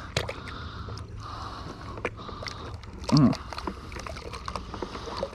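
Brush scrubbing a car wheel: scattered scrapes and clicks, with a brief low hum about three seconds in.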